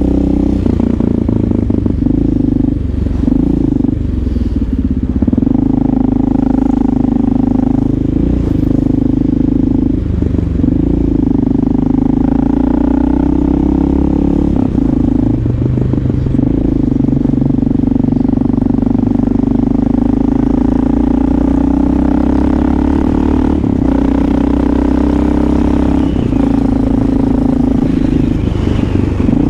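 Motorcycle engine running steadily while being ridden, its pitch shifting a little now and then with the throttle.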